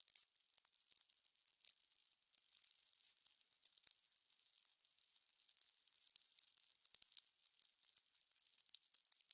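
Fire crackling: a steady thin hiss broken by many irregular sharp pops and snaps.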